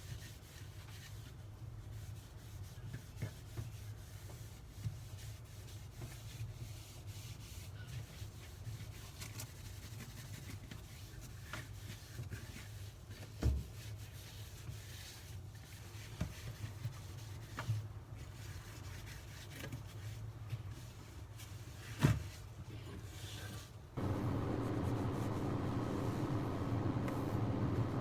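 Sponge scrubbing and wiping inside a refrigerator, soft rubbing with small clicks and two sharper knocks against the fridge. A steady, louder droning noise starts suddenly about four seconds before the end.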